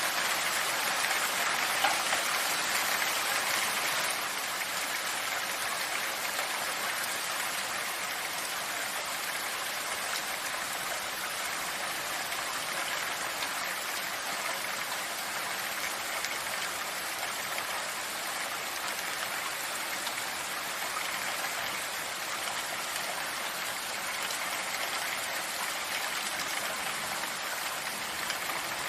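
Steady rain falling, an even hiss of many drops, a little louder for the first four seconds or so.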